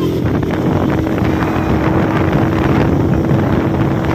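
Motorcycle engine running at a steady speed with wind noise buffeting the microphone while riding; a steady hum holds throughout under the rushing noise.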